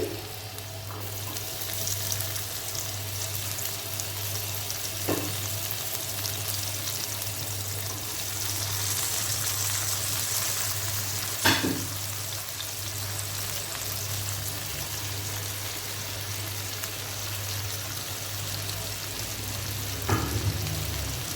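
Chopped onion and peppers sizzling steadily in hot oil in a frying pan as the filling cooks, with three sharp knocks spread through it.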